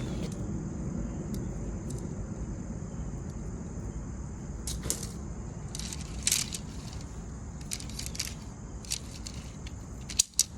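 Light clinks and rattles of metal tent-pole sections and gear being handled, a few at a time and irregular, with a sharper pair of clicks near the end.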